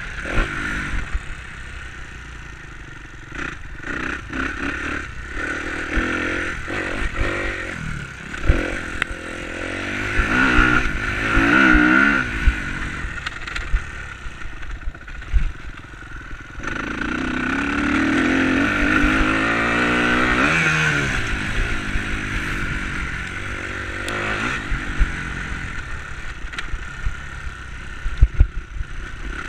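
Enduro motorcycle engine revving up and easing off again and again as it rides, loudest about two-thirds of the way through, with clattering knocks and scrapes, several sharp ones near the end.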